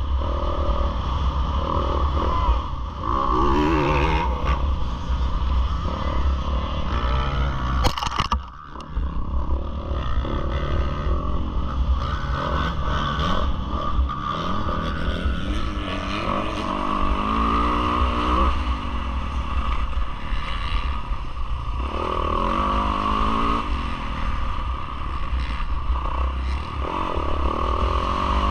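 Yamaha YZ450F four-stroke single-cylinder motocross engine ridden hard, rising in pitch again and again as it pulls through the gears and dropping back between. About eight seconds in there is a sharp knock and the engine briefly goes quiet. A steady low rumble of wind on the onboard microphone runs underneath.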